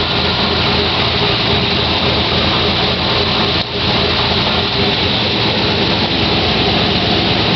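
2006 GMC Sierra 2500HD's 6.0-litre V8, freshly fitted with a custom camshaft, running steadily at idle. The sound dips briefly about three and a half seconds in.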